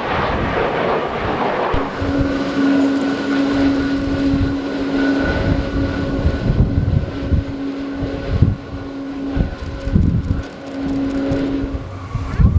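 Jet airliner engines running with a steady whine over a broad rush of noise, battered by strong wind gusting on the microphone, with the buffeting heavier in the second half.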